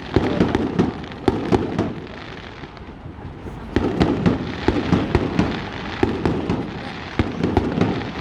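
Fireworks going off in rapid volleys of bangs and crackling. The first volley fades out about two seconds in, and a second starts again after a short lull.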